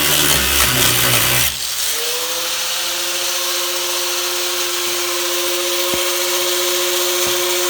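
Power tool cutting sheet metal, a harsh grinding noise that cuts off abruptly about a second and a half in. A steady machine hum with a level pitch takes over and runs on.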